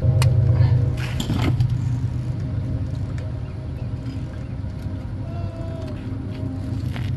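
Engine running steadily at idle, a constant low hum, with a few sharp metallic clicks in the first second and a half.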